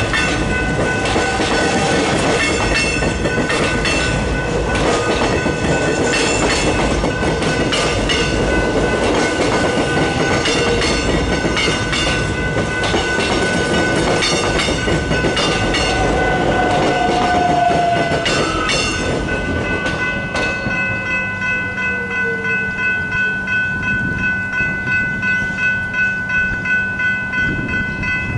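A train passes over a level crossing with a rumble and clickety-clack of wheels on rail joints while the crossing's warning bells ring. About twenty seconds in, the train noise falls away and the bells' repeated high ringing is heard clearly.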